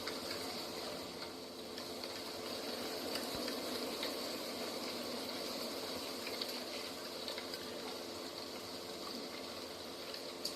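Steady rushing of flowing water, with a faint high steady hiss above it and a few light ticks.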